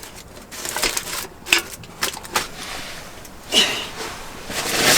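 Scattered clicks and knocks of camp cooking gear being handled, with a rushing swell of noise about three and a half seconds in.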